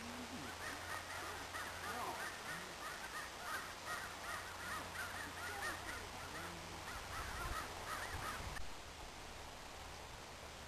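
Birds calling: a faint, busy chatter of many short, quick chirps overlapping, which stops abruptly about two seconds before the end.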